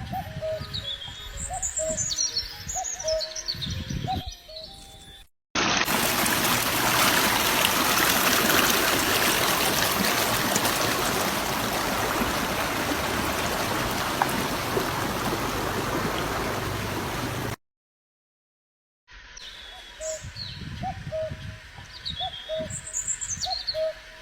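Birds chirping, with descending high calls and repeated low cooing notes. After a short break comes a loud, steady hiss lasting about twelve seconds, and after another break the birdsong returns.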